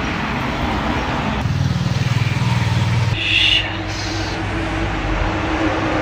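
Road traffic: vehicle engines running past in steady traffic noise, with a heavier engine rumble from about one and a half to three seconds in, then a brief high-pitched tone.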